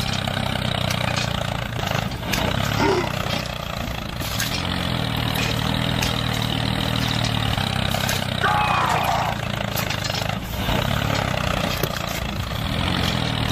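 Tractor engine running steadily, a low even drone. About eight and a half seconds in, a brief wavering higher sound rises over it.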